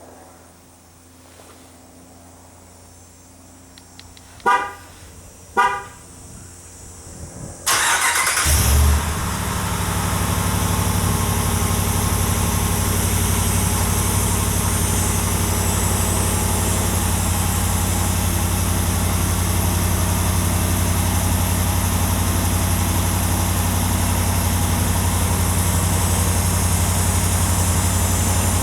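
2019 Ram 1500 sounding two short horn chirps, then its engine cranks and starts about eight seconds in with a brief rev flare, and settles into a steady low idle through the exhaust.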